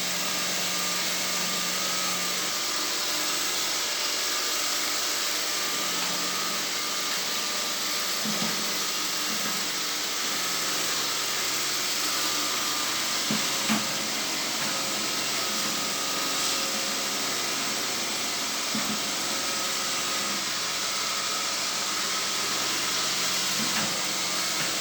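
Motorized sweeping machine running steadily, a constant whirring hiss with a faint hum under it. A few brief knocks sound through it, the clearest about 14 seconds in.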